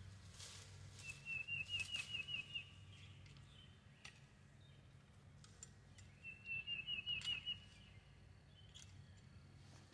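A songbird sings a short, rapid run of repeated notes twice, about five seconds apart, over a steady low hum, with a few faint clicks and rustles.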